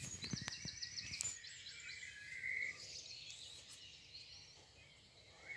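Songbirds in a morning chorus: a quick trill of repeated high notes near the start, then scattered chirps and whistles that thin out toward the end. A few sharp clicks sound in the first second and a half.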